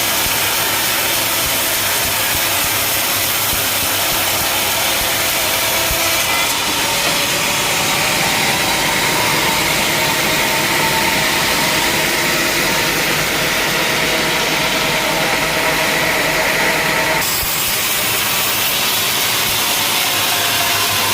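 Sawmill saw running and cutting through a log: a steady loud machine noise, with a higher-pitched cutting sound that comes in about six seconds in and stops abruptly about four seconds before the end.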